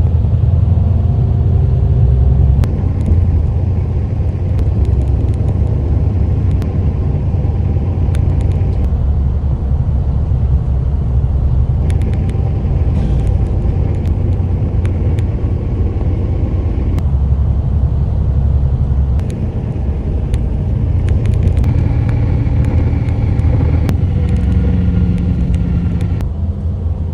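Steady low rumble of a moving vehicle heard from inside its cabin, with a few faint clicks and rattles.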